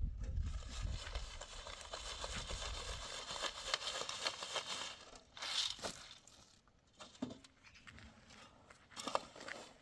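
Rustling and crackling of dry material being handled, dense for the first five seconds, then giving way to a few scattered light knocks and clicks.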